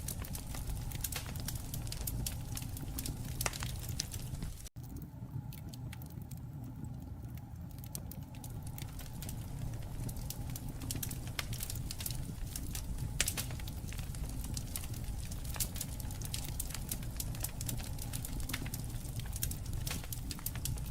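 Wood campfire burning: steady low rumble of the flames with frequent sharp crackles and pops, broken by a split-second dropout about five seconds in.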